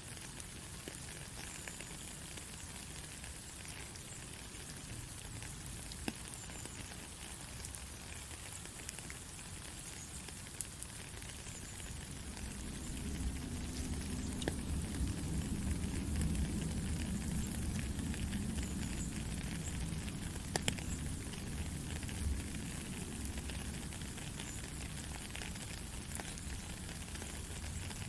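Steady heavy rain with scattered sharp drop ticks. About twelve seconds in, a low rolling rumble of thunder swells and then slowly fades under the rain.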